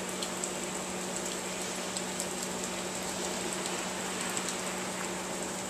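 Steady rain with scattered drop clicks, over a steady low hum.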